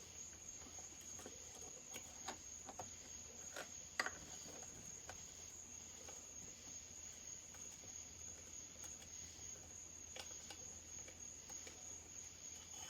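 Faint clicks and taps of an Allen key and small metal parts being handled while chainsaw cylinder bolts are removed, with one sharper click about four seconds in. A steady high-pitched whine runs underneath.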